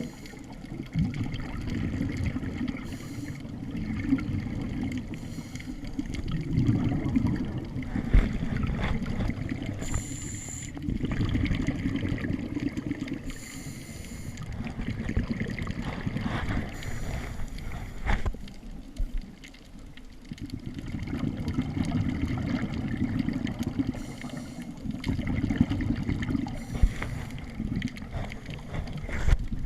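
Water gurgling and rumbling around an underwater camera housing, broken every few seconds by short hissing bursts of scuba exhaust bubbles.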